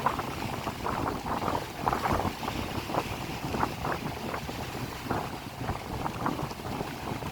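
Gusty wind noise on the microphone, an irregular rushing that swells and drops every second or so.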